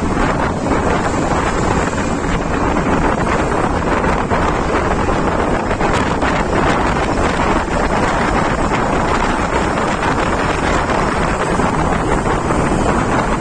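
Strong wind buffeting the microphone while travelling on the road: a loud, steady, rumbling roar with no break.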